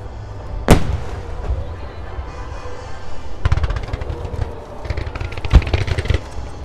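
Aerial fireworks bursting with music playing. There is a loud boom under a second in, then a quick run of crackling pops, and another boom with crackling near the end.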